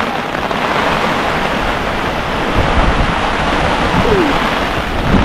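Heavy rain pouring down steadily, a loud, dense hiss.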